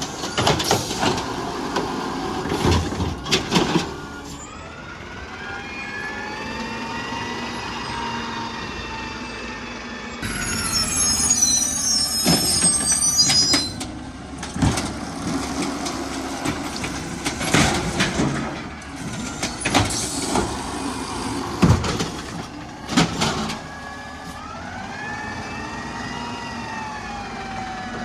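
Garbage truck at work: its engine revs up and falls back several times, with repeated loud bangs and knocks as bins are handled and a brief high squeal a little before halfway.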